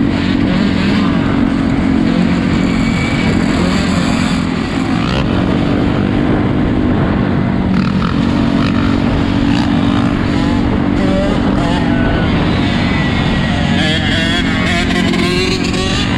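Several four-wheeler engines running loudly, held at steady revs that break off and pick up again a few times, with wavering higher engine notes over the top.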